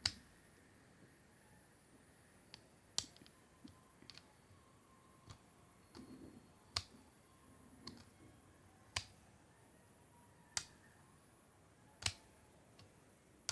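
Small plastic LEGO pieces clicking and tapping as they are handled and set down: scattered sharp clicks, about one every second or two, with fainter ticks between.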